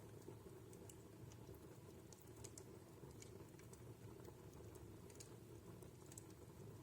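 Wood fire in a home fireplace crackling faintly: sparse, irregular little pops and snaps over a low steady rumble.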